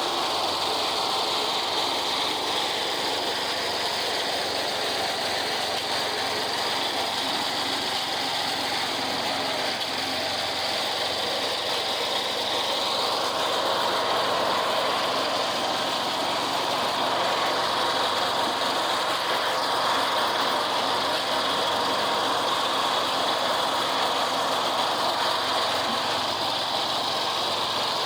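A construction machine's engine running steadily.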